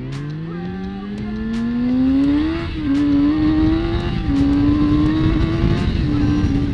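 Kawasaki ZX-6R's inline-four engine accelerating hard through the gears: its note climbs steadily, then dips and climbs again at three upshifts, about two and a half, four and six seconds in. Under it is a steady low rush of wind noise.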